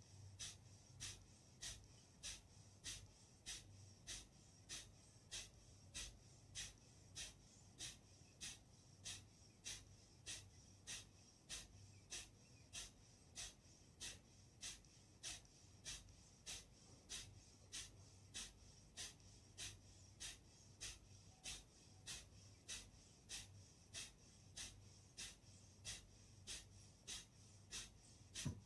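Kapalbhati pranayama breathing: short, forceful exhalations through the nose in a steady rhythm, a little under two a second.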